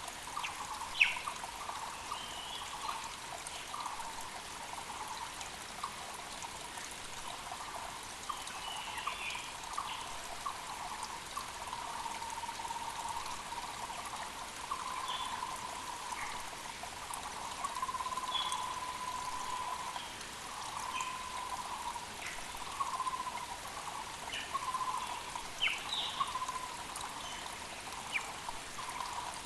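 Mountain creek trickling and splashing steadily, with birds calling over it: a low call repeated over and over at one pitch, and short higher chirps now and then. A single sharp click sounds about a second in.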